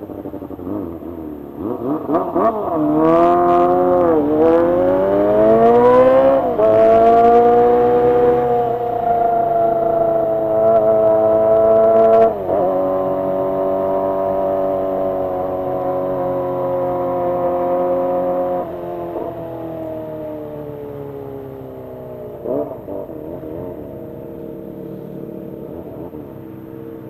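Kawasaki ZX-25R's 250 cc inline-four engine revving high as the bike accelerates through the gears. The pitch climbs and drops back at each upshift, then holds steady at high revs before easing off, with a short rev blip near the end.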